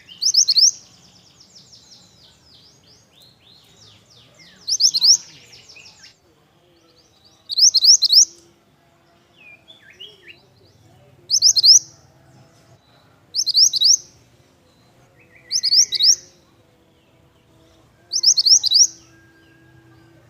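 Pied bushchat singing: seven short, loud, high phrases of a few rapid notes, each under a second, repeated every two to four seconds, with fainter bird chirps between.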